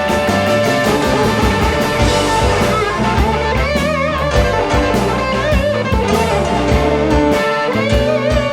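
Blues band playing an instrumental passage: guitar lead with wavering, vibrato-bent notes over drum kit, bass and keyboards.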